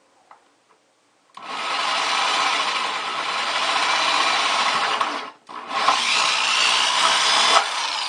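Power drill cutting a hole through the wall of a plastic 5-gallon bucket: two steady runs of drilling, the first about four seconds long starting about a second in, then a brief stop and a second run that carries on to the end.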